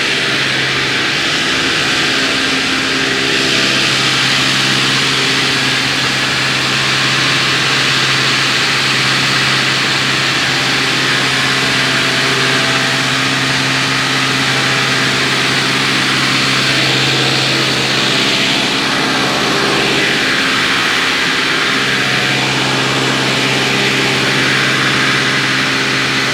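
Hyundai heavy tanker truck's diesel engine running steadily, a constant drone over a hiss. About twenty seconds in, its pitch drops for a couple of seconds, then comes back up.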